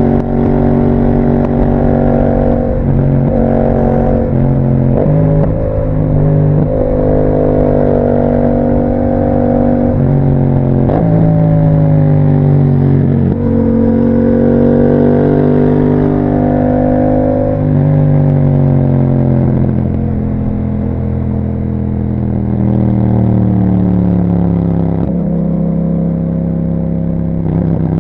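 A 2021 Yamaha MT-07's parallel-twin engine through an Akrapovic exhaust with a dB killer, on the move. It revs up through the gears with several quick upshifts in the first half, then eases off so the pitch falls, and runs on at a steadier pace.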